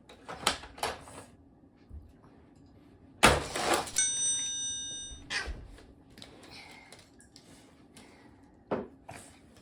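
Plastic clicks as a Hot Wheels Epic Loop playset's spring launcher is cocked, then a loud snap and clatter about three seconds in as a toy monster truck is fired off, followed by a brief ringing tone. Another sharp clack comes near the end.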